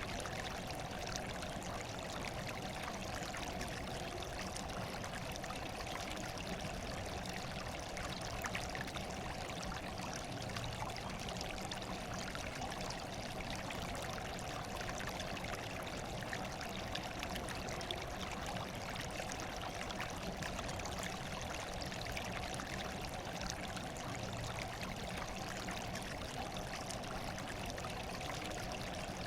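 Running water flowing steadily, a continuous even rush with no breaks or changes.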